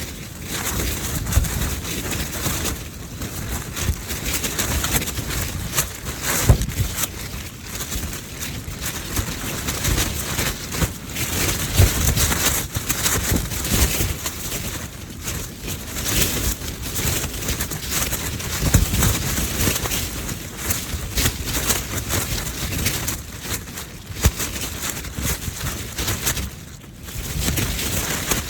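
Gusting high wind battering a Zpacks Duplex ultralight tent, its Dyneema fabric flapping and snapping sharply with each gust. Heavy wind rumble on the microphone rises and falls as gusts come and go, dropping briefly near the end.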